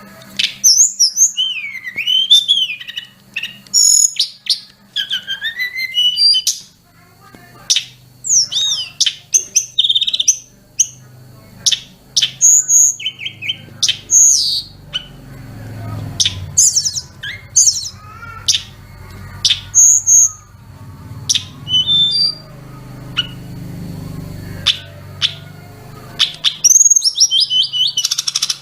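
A tledekan gunung (Sunda robin) singing a long, varied song of whistled sweeping notes, trills and sharp clicks in quick phrases with short pauses, including mimicked notes of other birds.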